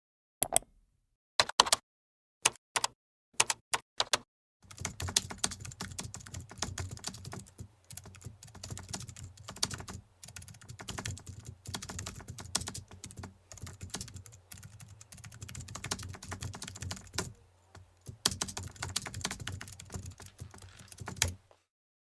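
Computer keyboard being typed on: a handful of separate key clicks, then a long run of quick, irregular typing.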